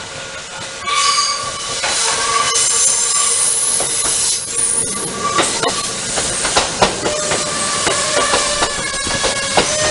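A Kintetsu train rolling past, its wheels squealing from about a second in. From about halfway through, sharp clacks come as the wheels run over rail joints.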